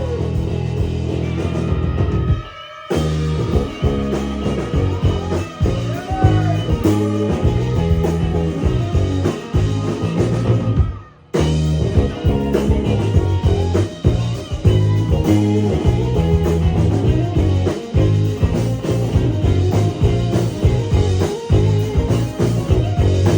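Rock band playing live, an instrumental passage with guitar, in which the whole band stops short twice, about two and a half seconds and about eleven seconds in, before coming back in.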